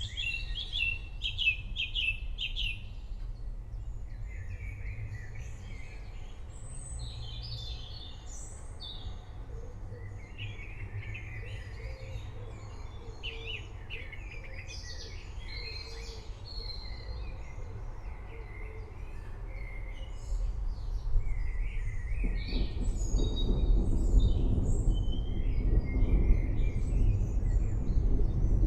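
Many forest birds chirping and trilling over a steady low rumble. About three-quarters of the way through, a deeper, noisier rumble swells up and stays louder.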